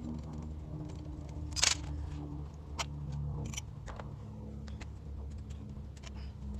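Honda Jade MC14E 250 cc inline-four engine running steadily, with irregular sharp clicks heard over it, a loud one about two seconds in.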